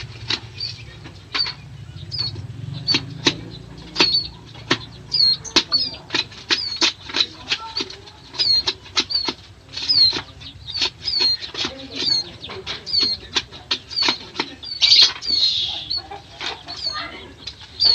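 Ciblek sawah (a small prinia) calling over and over with short, high chirps that hook downward, about one or two a second, mixed with many sharp clicks.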